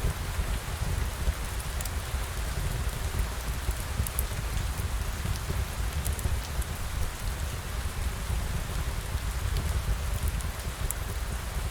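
Steady rain ambience: a constant patter of rain with a low rumble underneath and scattered faint ticks of drops.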